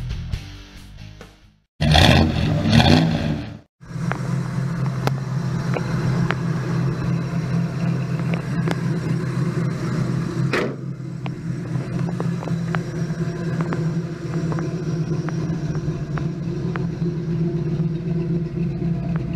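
Chevrolet 327 small-block V8 idling steadily through its dual exhaust with Flowmaster mufflers. Before it, rock music fades out and there is a loud two-second burst of sound about two seconds in.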